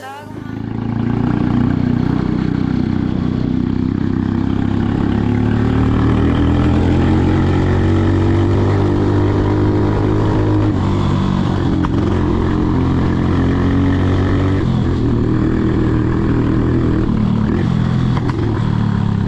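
Motorcycle engine running on the move, its pitch climbing slowly for several seconds, then dropping sharply twice and picking up again, with steady road and wind noise underneath.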